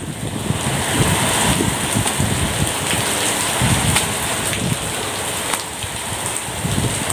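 Heavy rain pouring down steadily, with irregular low rumbles underneath.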